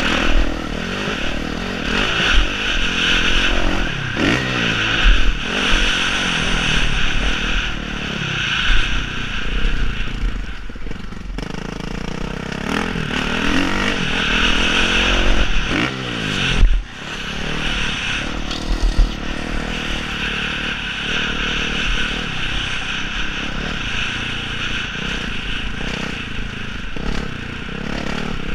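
Motocross bike engines revving up and down, pitch rising and falling repeatedly as the riders accelerate and shift on the track, several overlapping at times.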